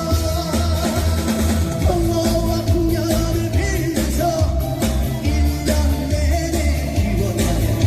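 Korean trot song with a lead vocal held and wavering over band backing and a steady bass beat.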